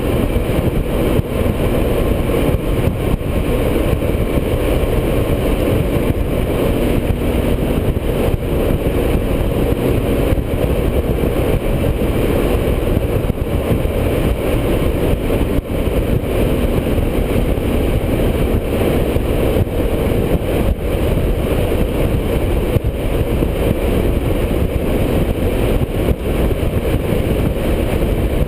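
Motorcycle cruising at a steady highway speed, wind rushing over the microphone with the engine running underneath.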